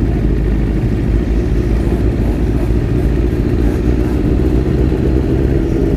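Motorcycle engine running steadily at low speed in a slow-moving group ride.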